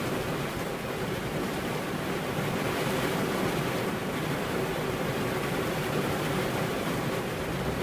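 Steady rain falling, an even rushing hiss that does not change.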